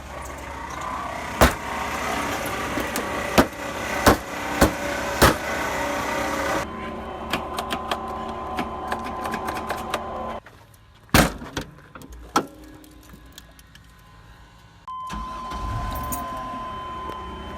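Chevy Astro van engine running, with irregular sharp clicks and clacks over its steady hum, which the owner puts down to failed alternator bearings.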